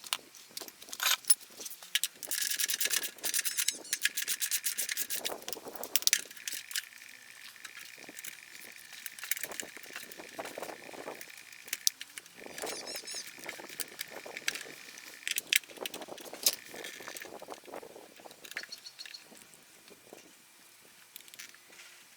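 Hand tools and metal parts clicking, rattling and scraping as a Honda Super Cub is taken apart. There is a fast run of clicks about two to three seconds in.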